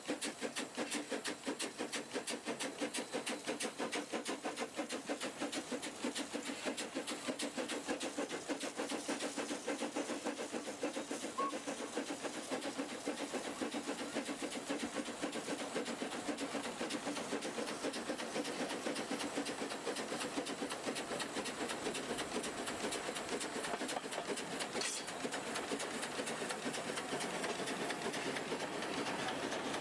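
Steady, rapid pulsing like a train running on rails. It is not coming from the pictured locomotives, which are derelict and cannot run.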